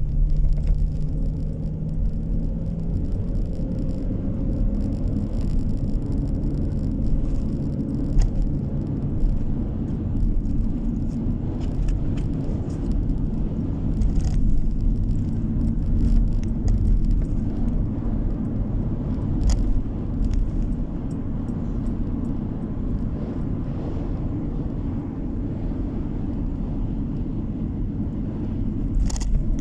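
Steady road noise of a car driving: low tyre and engine rumble, heard from inside the cabin, with a few faint clicks and rattles.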